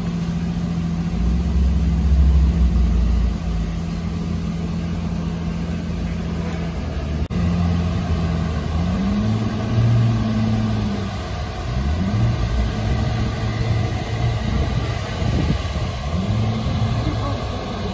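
Pagani Huayra's twin-turbo V12 idling steadily, then blipped several times in rising and falling revs from about halfway through as the car rolls slowly forward.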